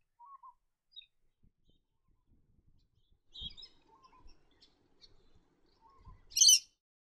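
Grey-crowned babblers calling: a few short, scattered calls, then one loud, high call about six seconds in.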